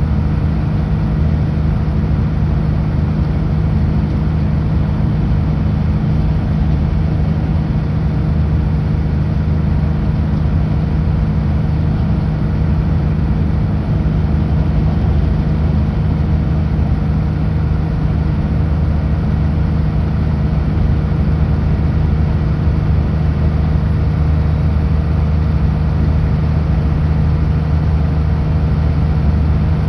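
Kenworth W900L semi truck's diesel engine droning steadily at a constant highway cruise, with road noise underneath; the pitch holds steady throughout.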